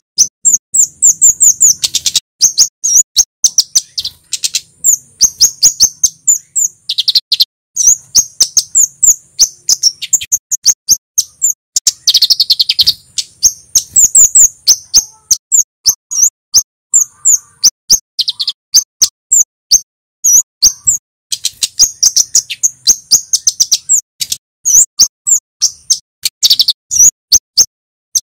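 Male kemade (flowerpecker) singing loudly: rapid, sharp high-pitched chips and short trilled phrases, nearly continuous with brief pauses.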